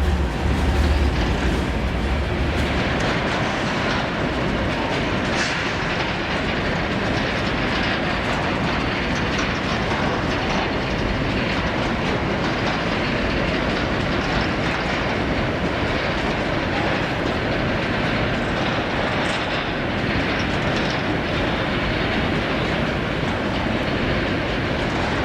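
Freight train rolling past on the track: a steady rumble of wagons with wheels clicking over the rails. A heavy low engine drone in the first few seconds fades as the locomotive moves on.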